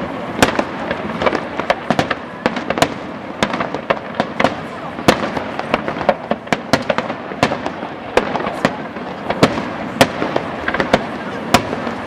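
Aerial fireworks display: a rapid, unbroken series of shell bursts, several sharp bangs a second over continuous crackling.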